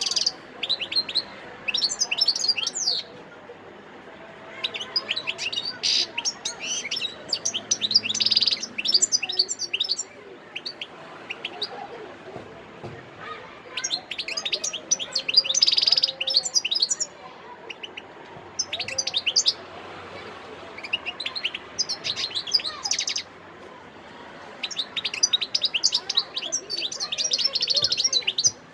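Wild-caught European goldfinch singing: rapid, high twittering song phrases delivered in several bouts of a few seconds each, with short pauses between them.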